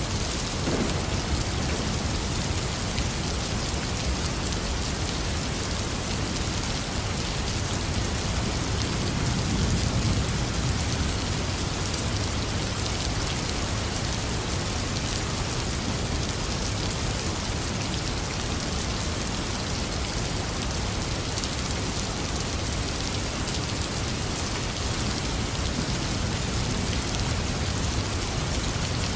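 Heavy rain falling steadily, with a low rumble of thunder swelling briefly about a third of the way through.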